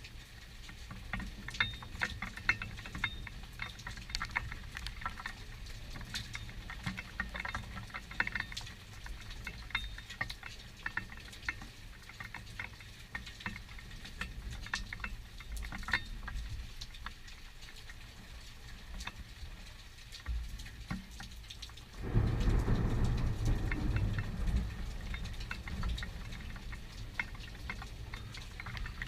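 Steady rain with many sharp ticks of drops hitting nearby. About two-thirds of the way through, a loud rumble of thunder breaks in suddenly and rolls for several seconds before slowly dying away.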